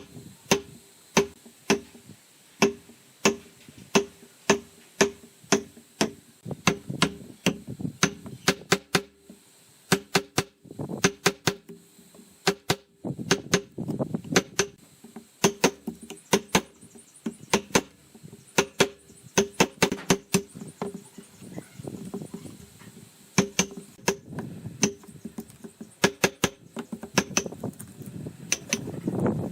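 Repeated sharp strikes of a tool on hollow bamboo, about one or two a second, each leaving a short ringing note, with runs of quicker, lighter taps in places.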